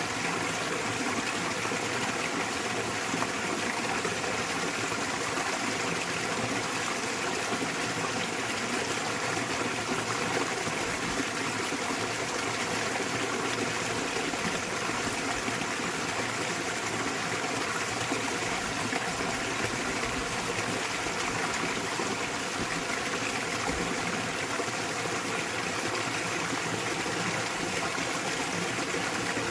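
Small waterfall pouring into a mountain stream: a steady, even rush and splash of water with no breaks.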